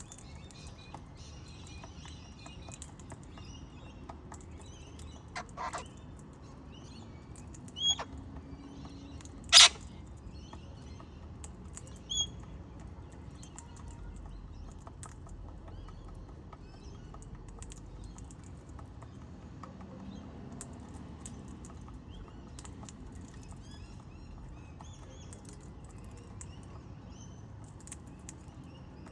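Birds chirping faintly and steadily, with a handful of short sharp clicks and knocks. The loudest knock comes about ten seconds in.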